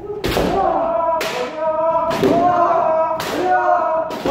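Kendo practitioners shouting drawn-out kiai while striking with bamboo shinai on armour: a sharp crack and stamp about once a second, four in all, with several voices shouting over one another between the strikes.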